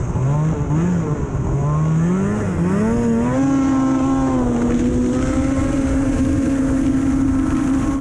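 Snowmobile engine accelerating: its pitch climbs in a few surges over the first three seconds, then holds steady at speed.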